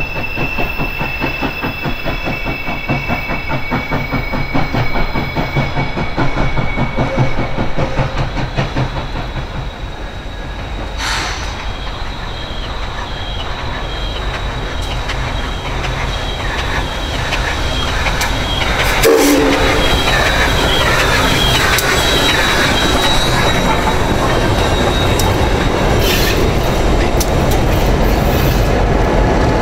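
Southern Railway 630, a 2-8-0 steam locomotive, working toward the camera on a curve: a rapid, even exhaust chuff with thin steady wheel squeals from the curve. From about two-thirds of the way through, a louder steady rumble of diesel locomotives and passenger cars rolling past close by takes over, with wheels clattering on the rail.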